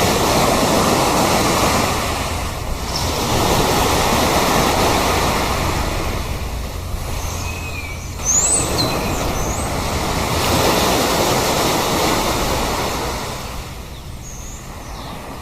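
Sea waves washing onto a shore, the surf surging and falling back every few seconds, with a few short, high bird calls about halfway through and again near the end.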